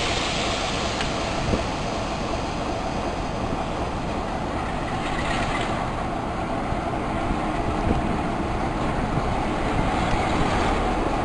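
A diesel-hauled heritage passenger train, with Class 46 D182 at its head, pulling out of a station, heard from a carriage window as a steady rumble of the moving train with a few faint knocks. It grows slightly louder as the train gathers speed.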